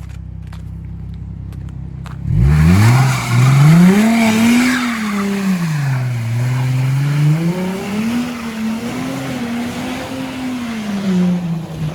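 2003 Infiniti G35's 3.5-litre V6 with its muffler deleted, running low at first, then about two seconds in revving hard under load. The note climbs quickly, falls, climbs again and holds high, then drops away near the end.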